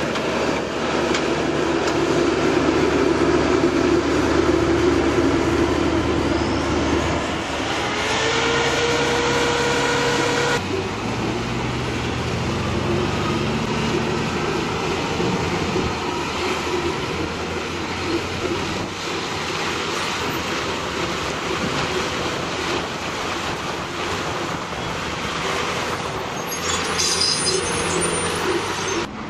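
Diesel engine of a working excavator running under load. Its note shifts about eight seconds in and changes again abruptly a few seconds later.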